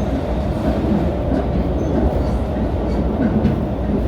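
Steady running noise of a Marine Liner electric train crossing the Seto Ohashi Bridge, heard from on board as an even low rumble.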